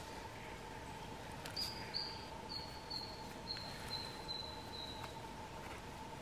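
A bird calling: a series of about eight short, high notes, each a little lower than the last, over a faint steady hum.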